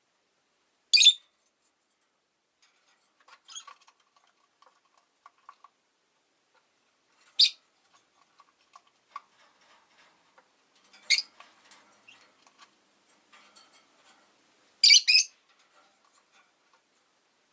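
Rosy-faced lovebirds giving short, sharp, high-pitched calls every few seconds, the last a quick double, with faint soft clicking and chatter in between.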